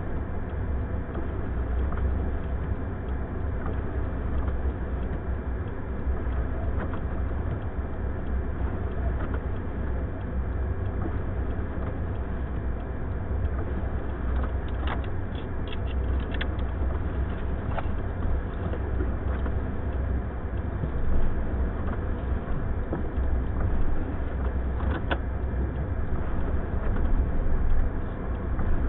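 Steady low rumble of a vehicle running with a noisy wind-like hiss over it, a few faint clicks around the middle.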